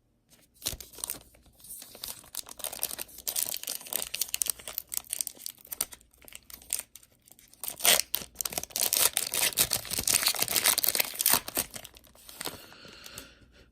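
A foil trading-card pack wrapper being torn open and crinkled by hand, an irregular crackling that runs for most of the stretch and is densest in the second half.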